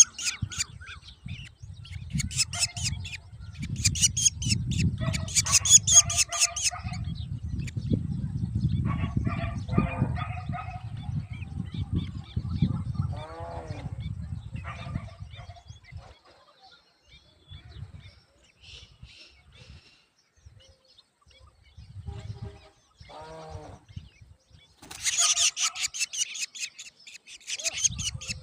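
Black drongo nestlings begging in bursts of rapid, harsh, high-pitched chattering, with a few short pitched calls between them. A low rumbling noise runs under the first half and stops about halfway through.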